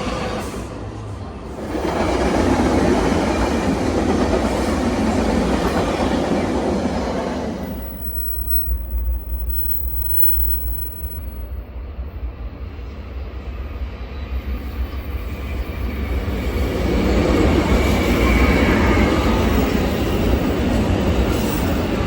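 Train running on the rails past the platform, a dense rushing rumble that swells, falls away sharply for several seconds, and builds up again near the end.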